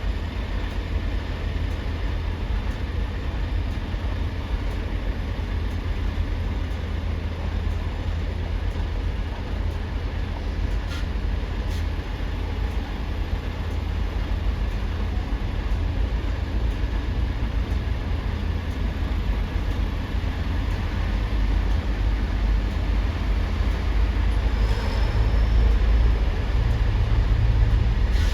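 Heavy engines rumbling steadily, growing louder over the last several seconds.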